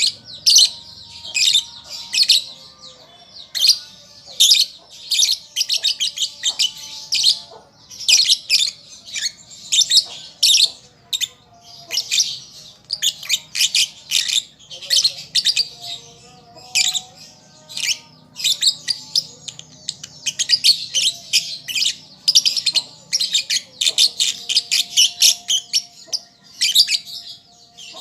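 Lovebird chattering: a fast, continuous run of short, sharp, high-pitched chirps, several a second, in irregular clusters.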